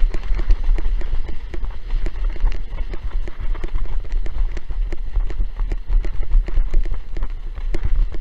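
Strong wind buffeting the microphone with a heavy rumble, over rapid irregular knocks and slaps as a windsurf board bounces across choppy water.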